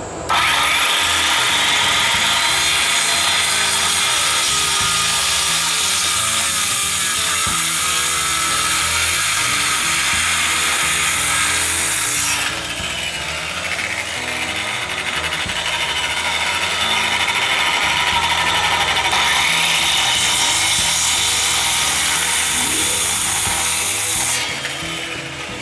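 Hand-held power tool running steadily on wood in two long runs of about twelve seconds each, easing off briefly in the middle and stopping near the end.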